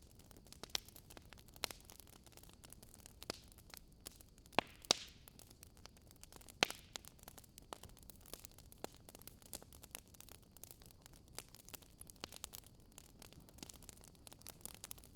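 Firewood burning in a fireplace, crackling: irregular sharp pops and snaps over a faint steady hiss, with a few louder pops near the middle.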